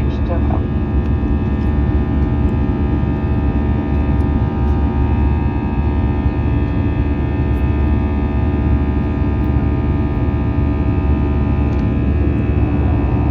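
Airbus A320 jet engines and airflow heard from inside the passenger cabin: a loud, steady drone with a deep rumble and several fixed humming tones.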